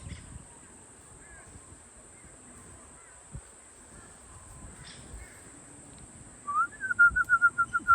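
A bird calling near the end: a short rising note, then a quick run of about nine repeated notes at one steady pitch.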